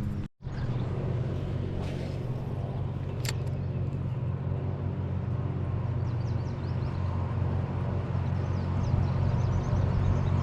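A steady low engine hum runs on without change. The sound drops out completely for a moment just after the start.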